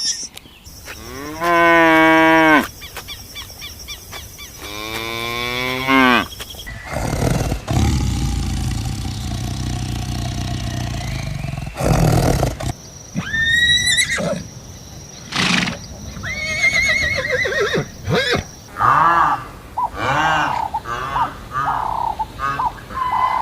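Farm animals calling in a run of short clips: several drawn-out calls early on, a stretch of low steady noise in the middle, then many short calls one after another.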